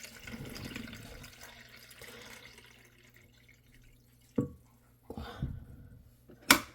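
Kitchen tap running for about three seconds, then several knocks and a sharp clack near the end as things are handled and set down.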